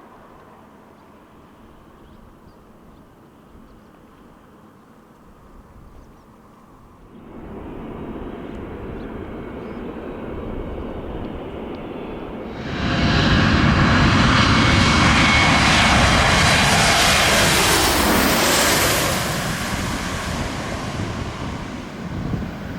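Airliner jet engines: faint at first, swelling about seven seconds in, much louder from about thirteen seconds to nineteen seconds, then fading.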